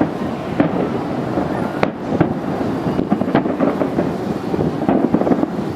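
Fireworks bursting in quick succession, a continuous rumble of booms with many sharp cracks.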